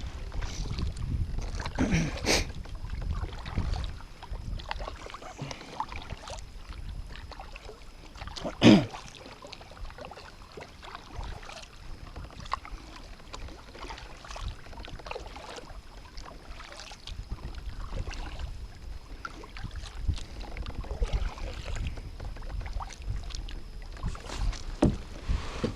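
Kayak moving on the water: low steady rumble with scattered small knocks and water sounds, and one louder knock about nine seconds in.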